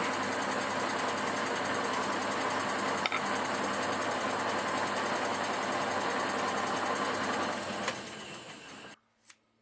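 Workshop machine tool motor running steadily while machining a metal hub, with a sharp click about three seconds in. Near the end it winds down and stops.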